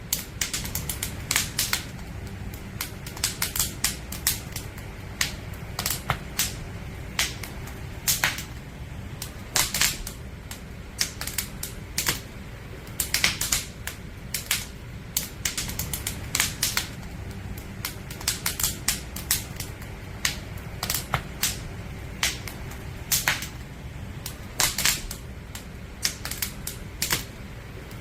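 Burning firewood in a campfire crackling: irregular sharp pops and snaps, sometimes several in quick succession, over a low steady rumble.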